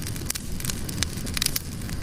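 Wood campfire burning, with frequent sharp pops and crackles over a steady low rumble of flame.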